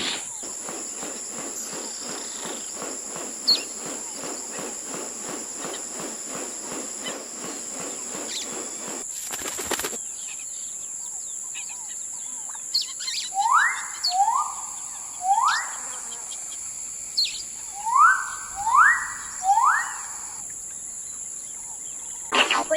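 Male riflebird calling: six loud whistles, each sweeping upward and then holding, given in two groups of three in the second half. Under them is a steady high rainforest insect chorus, a fast even pulsing through the first third, and a short rustling burst about nine seconds in.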